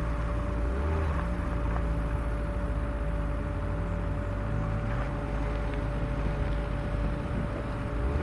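Off-road vehicle's engine running at low, slightly varying revs as it crawls along a rough trail, with a steady thin whine above it and a few faint knocks.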